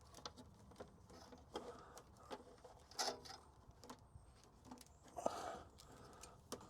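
Faint, irregular clicks and rustling of hands working a fuel line and its fixings into place, with a slightly louder rustle about three seconds in and again about five seconds in.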